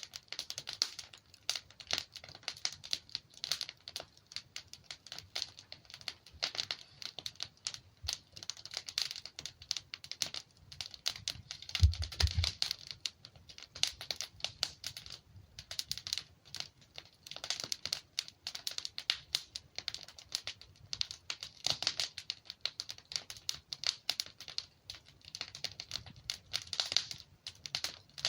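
Wood logs burning in a fireplace, crackling with dense, irregular snaps and pops, and one louder, deeper pop about twelve seconds in.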